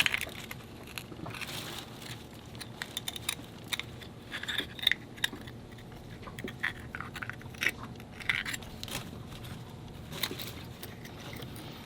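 A knife prying and scraping at a hard-shelled raw clam to open it, with irregular short clicks and scrapes of blade on shell and shell on shell.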